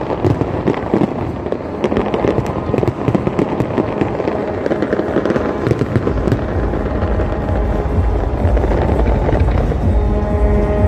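Fireworks display going off continuously: dense crackling and popping bursts, joined about six seconds in by heavy deep booms, with music playing alongside.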